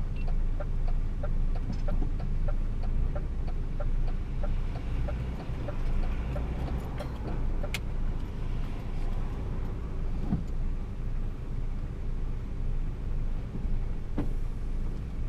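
Lorry's diesel engine running steadily, heard from the cab, with a light, rapid, regular ticking over it.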